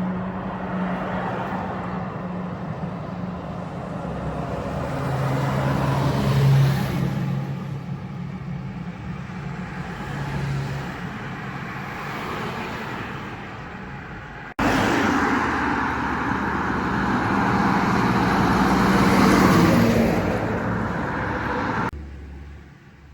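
Truck engines and road traffic driving past, a steady engine drone that swells as vehicles go by. The sound changes abruptly about two-thirds of the way through, and drops away sharply near the end.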